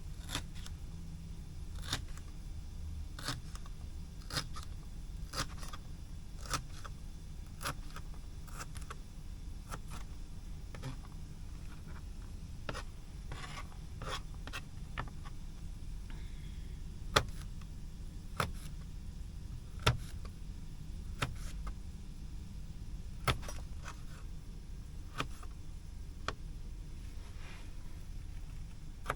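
Irregular small clicks, taps and scrapes of objects being handled, a few sharper knocks among them, over a steady low hum.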